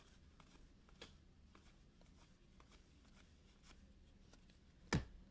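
Faint scattered clicks and light rustling of trading cards being handled and flipped through, with one sharper, louder tap about five seconds in.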